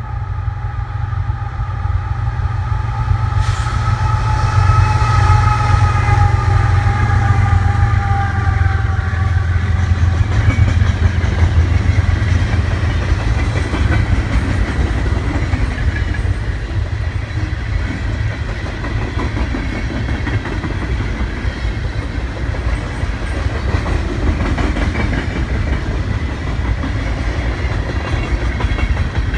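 A Canadian National freight train passing, led by two GE diesel locomotives (an ET44AC and an ES44AC): a heavy diesel rumble with several steady tones that slide slightly lower and fade over the first nine seconds or so as the locomotives go by. After that come the rumble and rattle of boxcars rolling past, with a faint high squeal running underneath.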